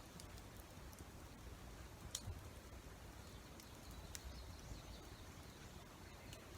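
Faint wood campfire crackling: a low steady hiss broken by a few scattered sharp pops, the loudest a little after two seconds in.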